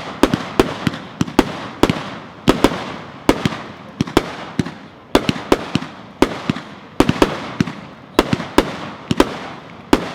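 A 26-shot, 500-gram consumer fireworks cake (Commander-in-Chief) firing its shots in sequence: sharp booms about two a second, some in quick pairs, each trailing off before the next.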